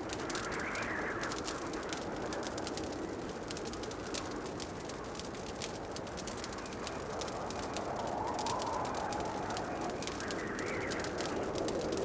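Wood fire crackling in a fireplace: many small, quick pops over a rushing hiss that slowly swells and fades.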